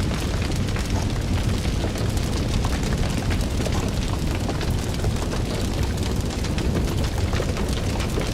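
Fire burning with a steady low rumble and frequent sharp crackles and pops throughout.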